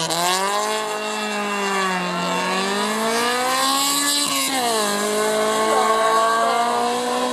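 Rally car engine under hard acceleration, its pitch rising through a gear, then dropping sharply at a gear change with a brief crack about four and a half seconds in, before rising again.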